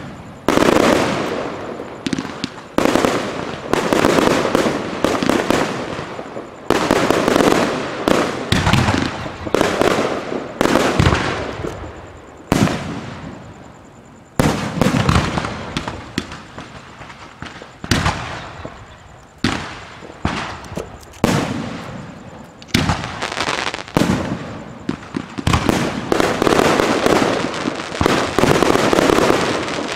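Aerial fireworks shells bursting one after another: sharp bangs in quick succession, each trailing off, with a couple of brief lulls.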